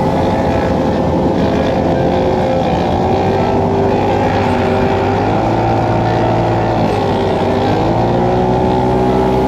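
Side-by-side UTV engine running on a trail ride, its pitch dropping and rising a few times as the throttle is eased off and opened again.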